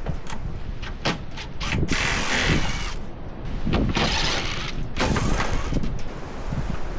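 Hand tools at work on bolts: a ratchet spanner clicking in two longer runs, with sharp metallic clicks and knocks between, over a low rumble of wind on the microphone.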